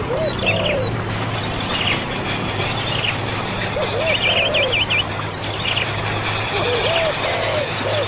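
Several birds calling, with short high chirps and a quick rapid run of notes about four seconds in, and lower arching call notes now and then. Under them runs a steady, evenly pulsed high-pitched buzz and a low hum.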